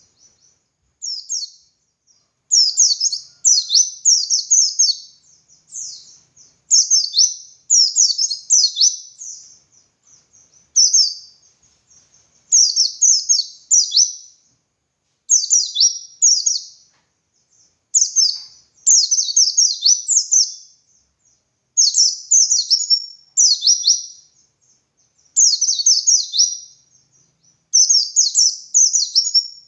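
Pleci (white-eye) singing its busy 'ngalas' song: high, rapid phrases of quick descending notes, one after another with short pauses between them.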